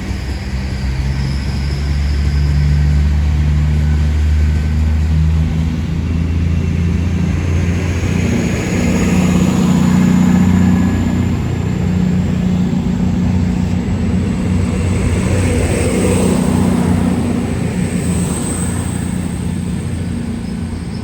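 Diesel multiple-unit passenger train running at the platform, its engines humming steadily with a few shifts in pitch and a faint high whine that rises slowly through the middle.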